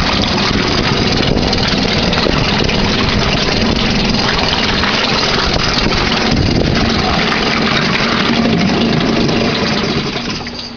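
1992 Yamaha 3 hp two-stroke outboard motor running steadily, growing quieter near the end.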